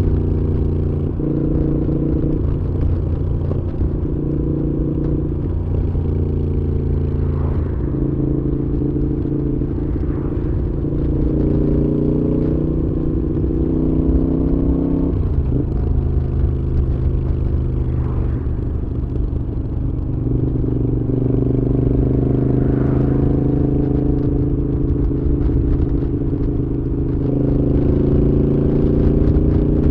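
Moto Guzzi V7's air-cooled transverse V-twin running through a Mistral aftermarket exhaust while riding. The engine note changes pitch several times, stepping at about a second in, around 7, 15, 20 and 27 seconds in, as the rider shifts or changes throttle.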